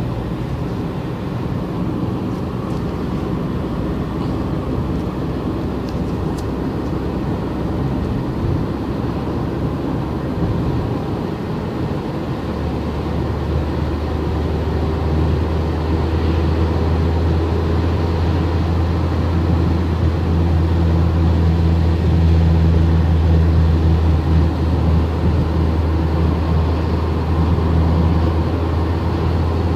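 Car driving along steadily, a continuous low engine and road rumble. About twelve seconds in, a strong steady low drone sets in and holds, slightly louder.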